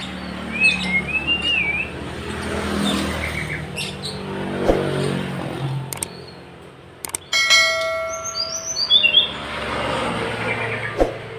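Tledekan gunung songbird singing short, wavy, high chirping phrases about a second in, and a run of falling high notes near the end, over a steady background rumble. About seven seconds in, a brief steady tone with overtones cuts in.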